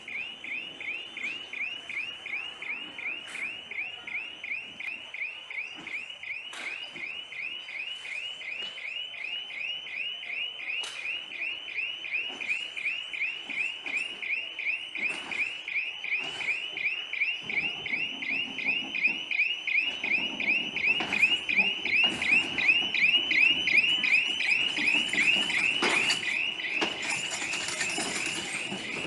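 A high chirp repeating about three times a second, steady throughout. From about eighteen seconds in, the rumble and wheel clatter of meter gauge coaches being shunted past grow louder, with scattered clanks.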